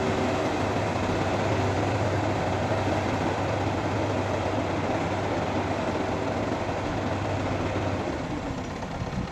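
A heavy engine running steadily with a low hum; the deepest part of the hum drops away near the end.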